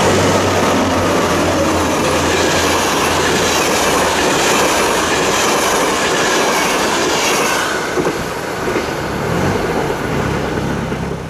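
Locomotive-hauled passenger train passing close by, its wheels clattering over the rails. The noise eases off about eight seconds in as the last coach goes past.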